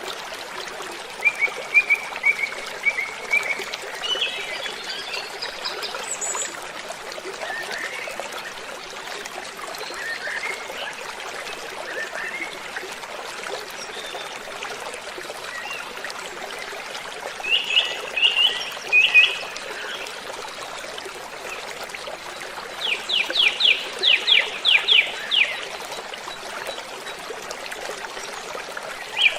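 Steady rush of a waterfall with birds singing over it: scattered chirps and short phrases, then a quick run of about a dozen notes lasting a couple of seconds near the end.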